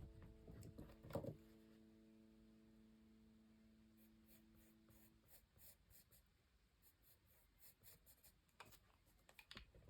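Faint pencil strokes scratching on sketchbook paper, short and irregular.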